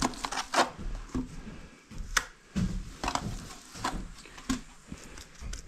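Bricklaying: a brick being set and tapped down into mortar, with sharp, irregular knocks of trowel and brick about once a second.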